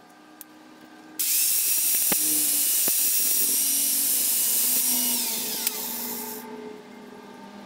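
A small electric power tool switched on about a second in, running with a steady high-pitched whine for about five seconds, then spinning down with a falling whine.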